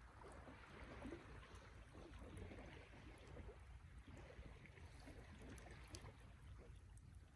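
Wood campfire burning quietly, with faint scattered crackles and small pops over a low steady rumble.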